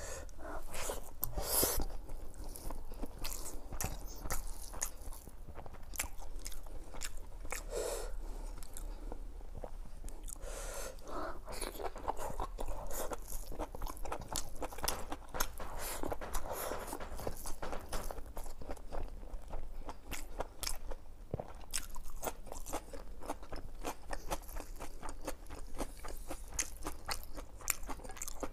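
Close-miked eating sounds of mutton curry and khichdi: steady chewing and biting, with many short wet clicks and crunches.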